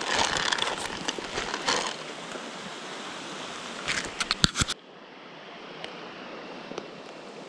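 Stream water rushing steadily, with rustling and a cluster of sharp clicks in the first five seconds; a little under five seconds in the sound drops abruptly to a quieter rush.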